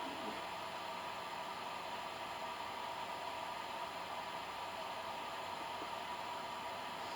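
Electric fan running steadily, a constant airy hiss with no changes, blowing the smoke out of the room.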